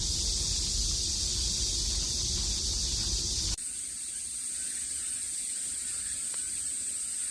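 Outdoor insect chorus: a steady high hiss with wind rumbling on the microphone, which cuts off about three and a half seconds in to a quieter, steady high-pitched insect drone.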